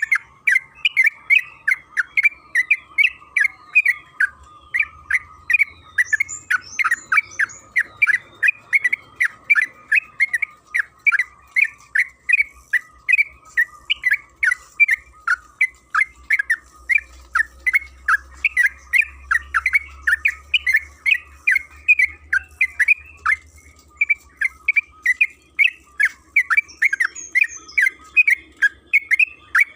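Yellow-vented bulbul (trucukan kebo) calling without a break, about three short, sharp chirps a second, a long chattering call run.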